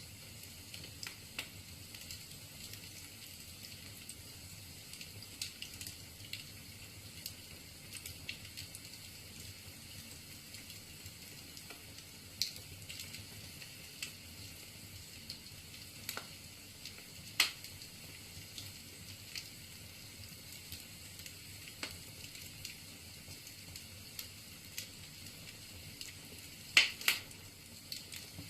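Wood fire crackling in a fireplace: a soft steady hiss with scattered pops and snaps. The loudest are a sharp snap about two-thirds of the way through and two in quick succession near the end.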